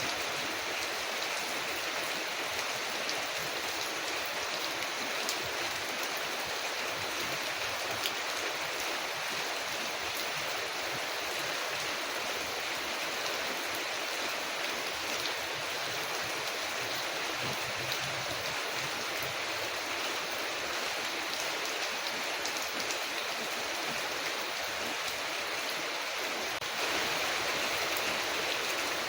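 Steady rain falling on a window, an even hiss with a few light ticks scattered through it, a little louder near the end.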